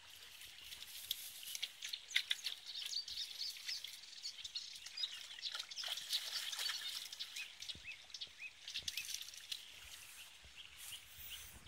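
Small birds chirping and singing, many short high notes, with light rustling and a few faint clicks.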